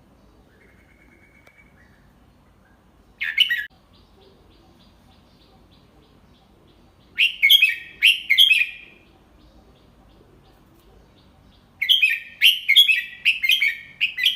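Red-whiskered bulbul singing in short bubbling phrases of quick notes: one brief phrase about three seconds in, two more a few seconds later, and a longer run of rapid notes near the end. It is a tutor bird's 'double three' song, sung slowly and clearly for young birds to learn.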